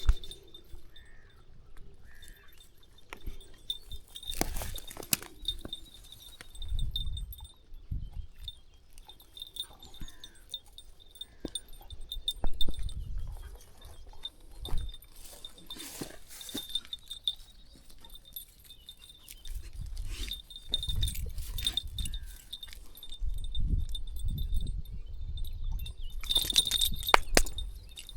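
Countryside walking ambience: footsteps and rustling of foliage along a path, low wind gusts buffeting the microphone, a few short bird chirps, and a thin steady high-pitched tone in the background.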